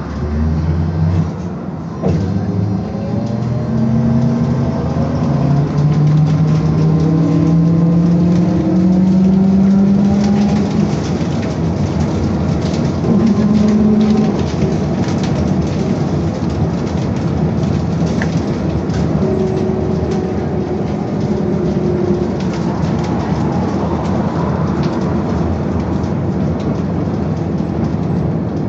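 Belkommunmash BKM-221 trolleybus heard from inside as it accelerates: its electric traction drive whines, rising in pitch for about ten seconds. Then steady road and tyre rumble with light rattles while it cruises.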